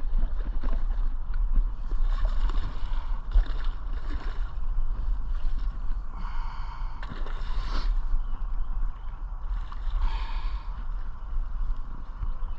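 Wind buffeting the microphone over water sloshing and lapping against a small boat: a steady low rumble, with patches of splashy hiss coming and going.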